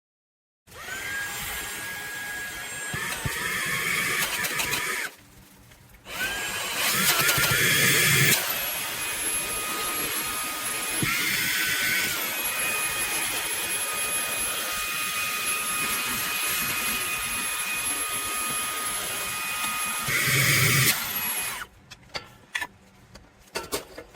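Small handheld vacuum's motor whining as it is switched on and run. It steps between power settings, stops briefly about five seconds in, then restarts and runs steadily with short louder surges before it cuts off near the end, followed by a few clicks.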